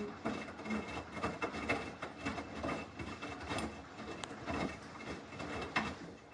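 Samsung washing machine running a normal wash cycle, with the drum turning and the load giving a steady run of irregular knocks and clatter over a faint hum.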